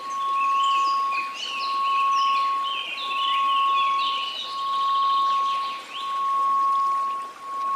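A steady 1098 Hz sine tone over a faint hiss of white noise, swelling and fading about every second and a half. Birds chirp over it for the first six seconds or so.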